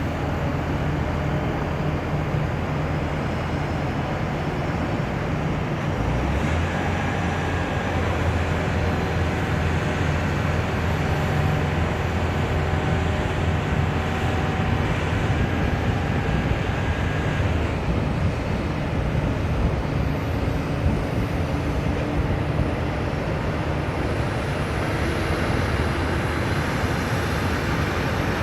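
Airliner jet engines running steadily, with a thin whine heard from about six seconds in until about seventeen seconds.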